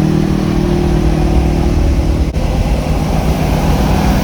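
Truck engine running. A steady droning hum gives way, after a sudden cut about two seconds in, to a rougher low rumble.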